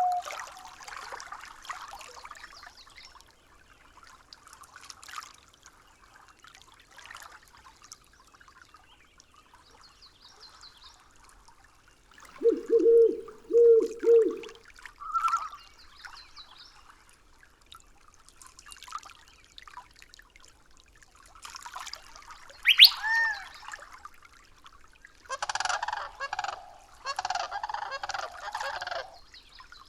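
Nature-recording ambience of bird calls over faint trickling water: three loud, low, honk-like calls about halfway through, a single rising-and-falling call a little later, and a run of repeated calls near the end.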